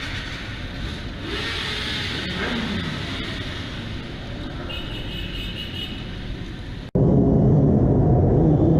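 Road traffic and vehicle engine noise from a ride. About seven seconds in it cuts abruptly to a louder, steady low rumble.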